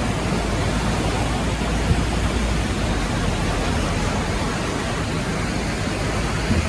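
Steady, loud rushing of water with a low rumble underneath, even throughout.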